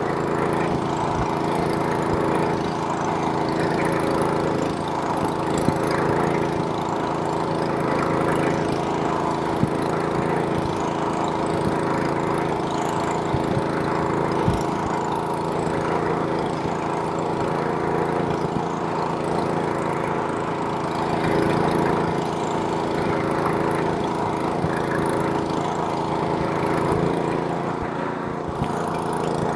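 Snowblower's small gas engine running steadily at a constant speed.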